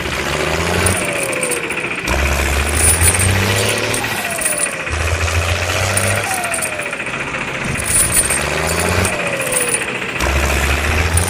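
Vehicle engine running steadily, with a falling whine that repeats about every two seconds.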